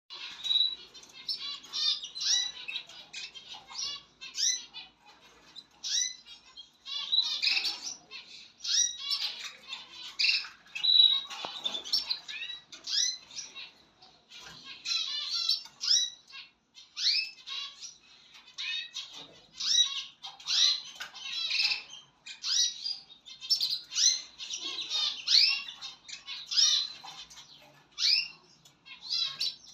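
Several domestic canaries chirping and calling in quick bursts of short, high notes and brief trills, over and over.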